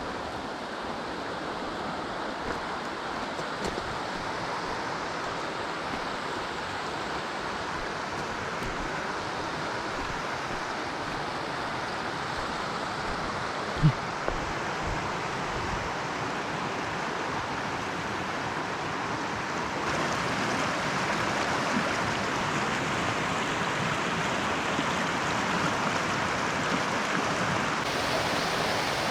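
Mountain stream rushing over rocks, a steady even rush that grows a little louder about twenty seconds in. A single sharp click about fourteen seconds in.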